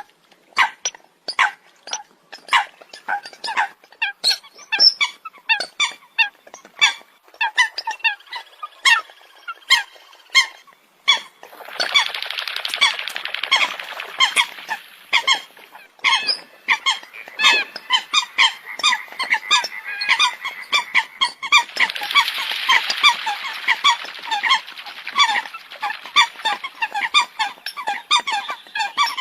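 Eurasian coots calling: short, sharp honking calls repeated rapidly from several birds. The calls thicken into a dense overlapping chorus about twelve seconds in and again a little past twenty seconds.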